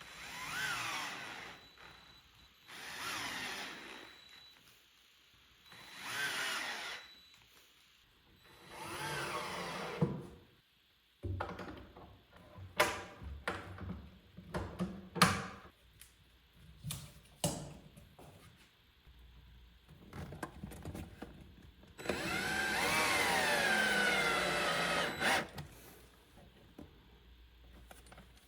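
Cordless drill-driver run in short bursts, its motor whine rising and falling with each squeeze of the trigger, as when driving screws: four brief runs, then a longer one near the end. Between them comes a run of sharp clicks and knocks from handling hardware and wood.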